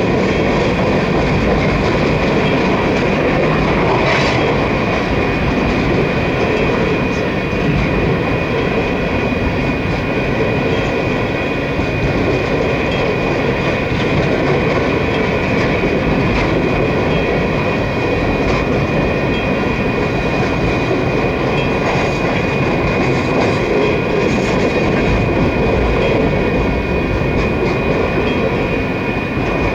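A string of empty coal cars rolling past at speed: a steady rush of wheel and rail noise with a thin steady ringing tone over it and a few light clanks.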